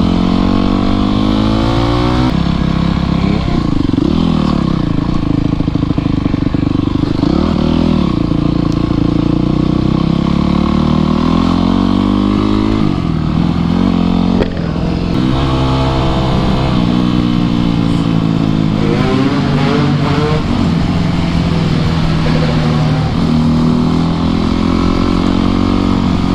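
Dirt bike engine under way, its pitch climbing as it revs up through each gear and dropping back at the shifts, several times over, with steady wind and road noise.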